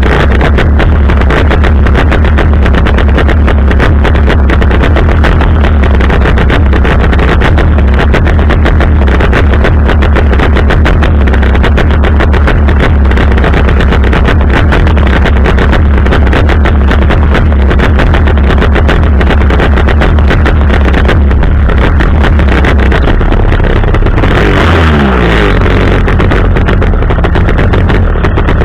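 Chainsaw engine running at high speed, very loud and distorted. About 24 seconds in, its pitch falls quickly as it drops back to idle.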